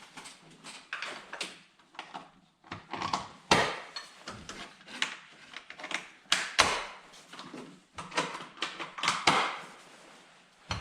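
Irregular clicks, knocks and short scrapes of hand tools and metal parts being handled during reassembly under a car's hood, with no engine running.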